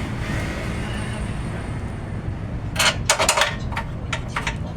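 A quick cluster of four or five sharp knocks and clicks about three seconds in, with a few lighter clicks after, over a steady low rumble. These are hand tools and parts being handled during car suspension work.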